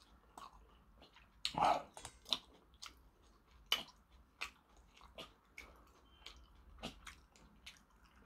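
A person chewing food with the mouth partly open: soft, wet smacks and clicks at irregular intervals, the loudest about a second and a half in.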